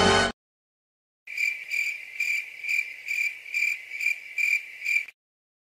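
A music clip cuts off just after the start; after about a second of silence comes the stock crickets-chirping sound effect, a high chirp repeating about twice a second, nine times. This is the effect commonly used to mark an awkward silence.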